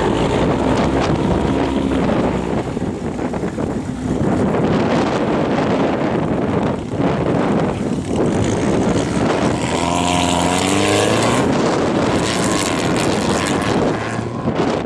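Wind buffeting the microphone over car engines running. About ten seconds in, an engine's pitch rises and falls briefly, as in a rev.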